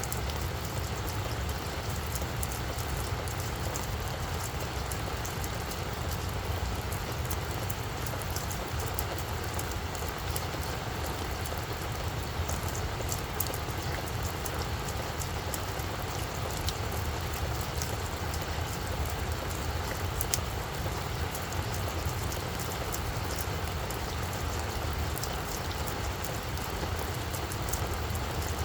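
Steady rain falling on a flower bed: an even hiss of rain with many small drop ticks scattered through it, over a continuous low rumble.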